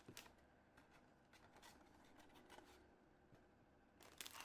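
Near silence with faint handling sounds: a few light clicks, then crinkling of plastic parts bags starting near the end.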